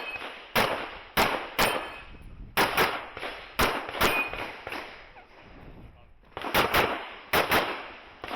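Handgun shots fired rapidly, mostly in quick pairs, about a dozen in all, with a break of about two seconds in the middle.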